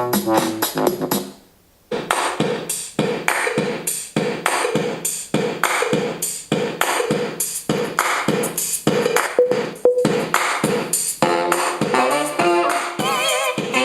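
Music with a steady beat of about two strokes a second, played loudly through a Bluedio BS-3 Hurricane Bluetooth speaker. It drops out briefly about a second in, then picks up again.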